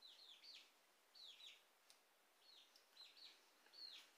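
Faint bird chirping: short falling chirps in quick groups of two or three, repeating about once a second.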